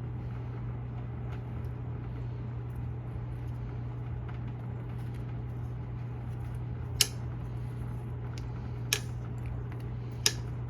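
Steady low hum of a running air conditioner, with three sharp clicks spaced a second or two apart in the second half.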